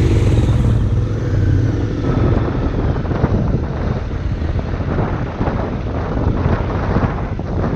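Motorcycle engine running, its pitch wavering for the first two seconds or so, then giving way to a steady rough rush of riding noise.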